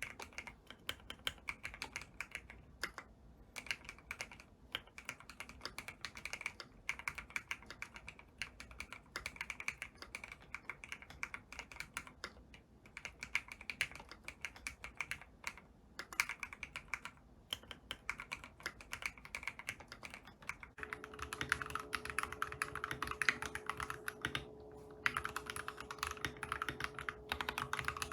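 Enthusiast keyboard being typed on steadily, a fast run of keystroke clicks. About 21 s in the sound changes to brighter, denser typing with a steady hum underneath.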